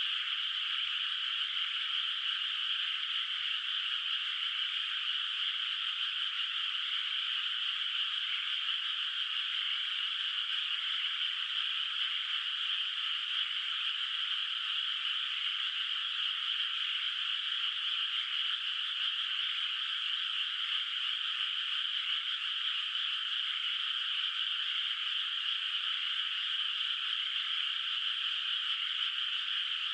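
Dense chorus of many frogs calling at once, steady and unbroken with no pauses. The calls sit high and thin, with no low notes.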